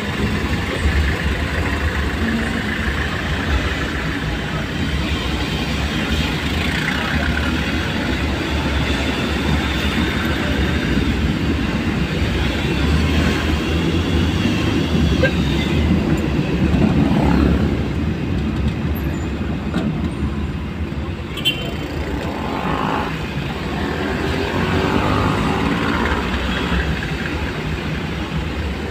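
Steady vehicle engine and road rumble while driving along a road.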